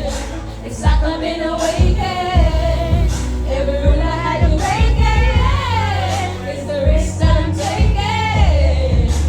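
Karaoke: a voice singing a melody over a loud backing track with heavy bass.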